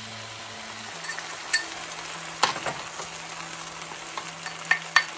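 Stir-fry of noodles, ground beef and vegetables sizzling steadily in a large skillet as the sauce is poured in, with a few sharp clicks of a wooden spoon scraping against the ceramic sauce bowl.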